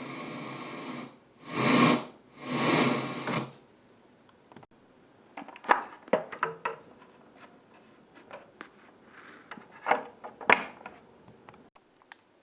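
1977 Toshiba 16T366 colour CRT television hissing with static, broken by two loud rushes of noise, then scattered clicks and knocks.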